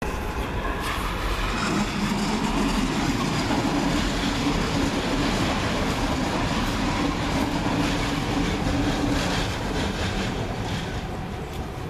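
Red electric multiple-unit commuter train passing across the station approach tracks: wheels running on rail with a steady hum, easing off near the end as the train moves away.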